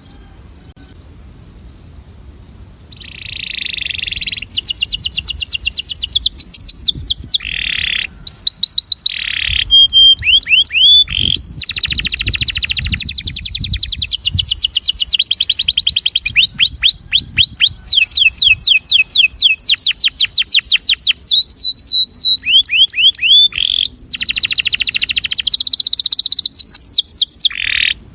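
Male domestic canary singing its courtship song to attract a mate. After about three quiet seconds it breaks into a long, loud run of rapid trills, each a quick series of repeated rising chirps, changing from one trill to the next.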